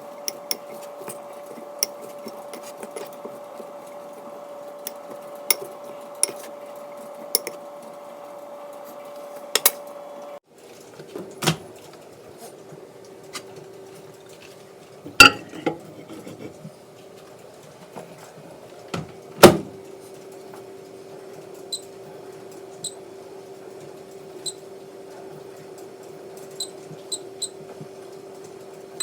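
Kitchen utensils and dishes clinking and clanking, with a few sharp louder clanks, over a steady hum that drops in pitch about ten seconds in.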